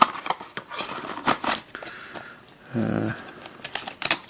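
Plastic twisty puzzle, a Witeden 3x3x9 cuboid, being handled: a run of sharp clicks and rustles from its plastic pieces, with a short hum of voice about three seconds in.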